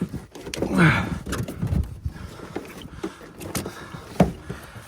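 Sharp clicks and knocks of jumper cable clamps and a battery being handled and clamped onto terminals, the loudest click about four seconds in. A short grunt about a second in.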